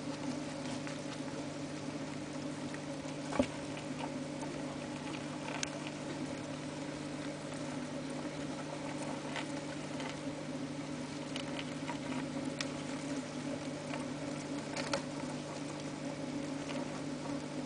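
House crickets scrabbling and moving about in their enclosure: light scattered scratching and small clicks, with one sharper tap about three seconds in, over a steady low hum.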